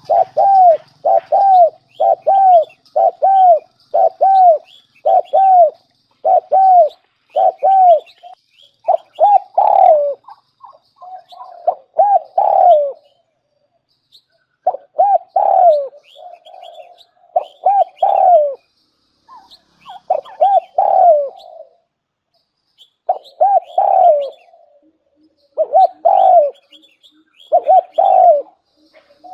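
Spotted dove cooing, the call of a decoy bird used to lure wild doves: a fast, even run of short coos for the first ten seconds, then groups of two or three coos with pauses between, with faint higher chirps alongside.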